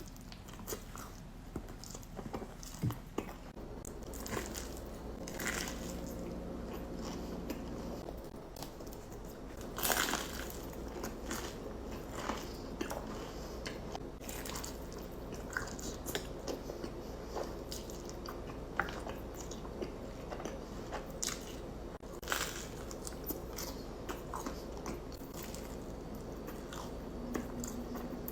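Close-miked eating: crunchy bites and chewing, with the loudest crunches about ten seconds in and again about twenty-two seconds in.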